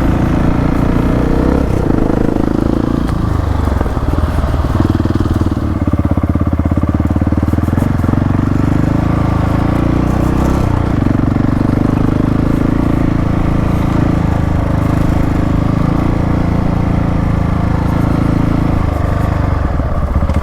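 Trail motorcycle engine running steadily at low revs, its pitch dipping and rising slightly a few times.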